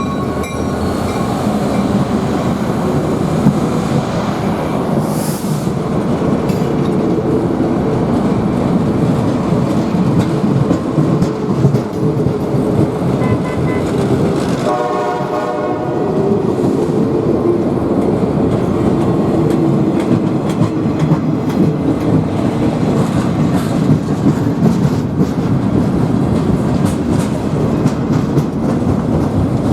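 Train rolling past at close range, a steady rumble of wheels on rail with clickety-clack over the rail joints. A horn note dies away at the very start, and there is a brief squeal about halfway through.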